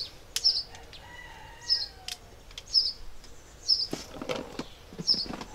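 A small bird chirps over and over, a short high chirp about once a second. Around the middle come rustling and light knocks of items being handled in a cardboard box.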